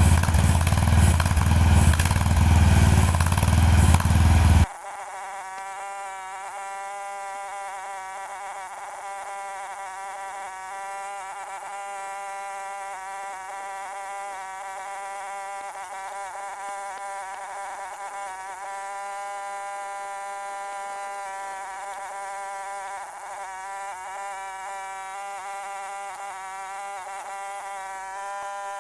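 Power drill running loud for about the first five seconds, then cutting off suddenly. A quieter, steady electric motor buzz follows, its pitch wavering slightly.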